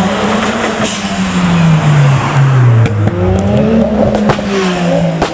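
Modified car engine and exhaust accelerating away, the engine note dropping and climbing again through gear changes, with a few sharp cracks in the second half.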